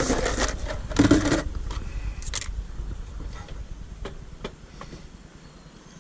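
Metal cutlery and cookware clattering and scraping, a busy burst of knocks in the first second and a half, then a few scattered clicks.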